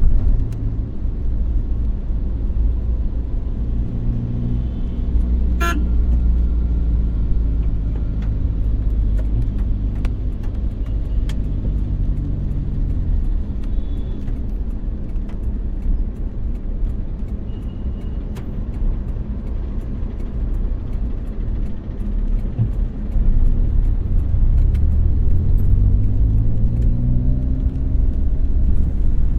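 Car driving through city traffic: a steady low engine and road rumble, the engine pitch rising as it speeds up, once early on and again near the end. Short car-horn toots sound in the traffic, and there is one sharp click about six seconds in.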